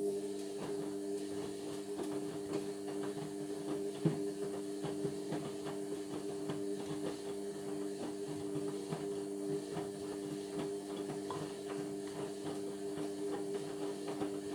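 Indesit washing machine starting up suddenly and then running steadily with a low hum and faint, rapid ticking.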